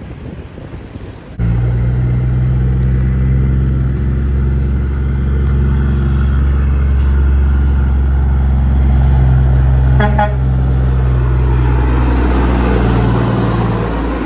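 Heavy truck's diesel engine running steadily at a fixed pitch, starting abruptly about a second and a half in and fading near the end, with a brief sharp blip about ten seconds in.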